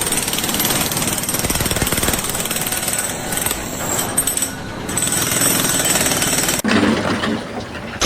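Rapid, steady mechanical hammering of a power hammer such as a jackhammer, continuing without a pause until it breaks off abruptly near the end.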